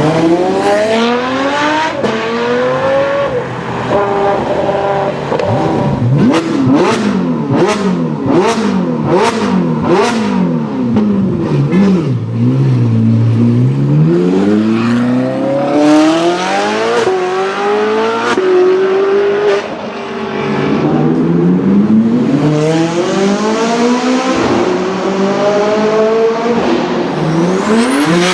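Sports car engine revved over and over, its pitch climbing and falling back with each blip. A run of sharp cracks comes in the middle.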